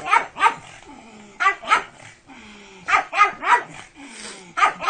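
A pug barking repeatedly in quick bursts of two or three sharp barks.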